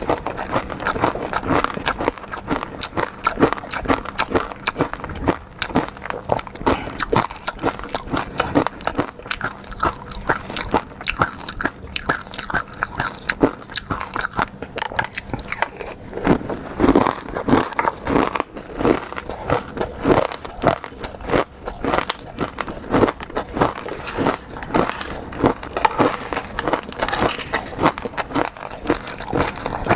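Close-miked eating: a continuous stream of wet chewing, smacking and small crackling clicks of seafood being bitten and chewed.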